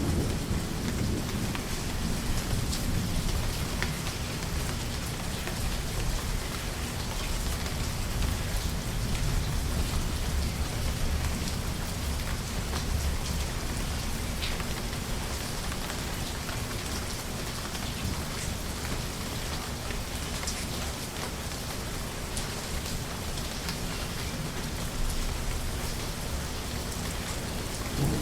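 Steady heavy rain with scattered drop ticks, under a low rolling rumble of distant thunder that is strongest in the first half and eases toward the end.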